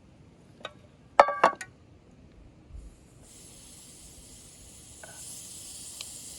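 Metal cookware clinking twice with a ringing tone, after a few light clicks. A steady high hiss sets in about three seconds in and keeps going.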